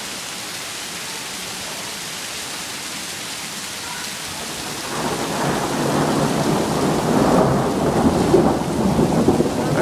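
Hailstorm: a steady hiss of hail and rain falling, which grows louder and rougher about five seconds in.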